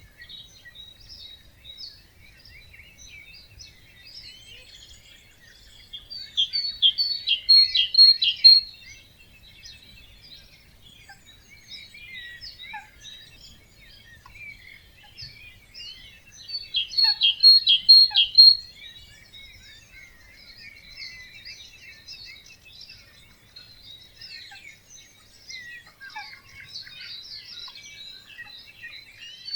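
Dawn chorus of many songbirds in a wetland, a steady background of chirps and trills. One nearby bird sings a loud phrase of rapid repeated notes, about two seconds long, roughly every ten seconds: twice in full and starting again at the very end.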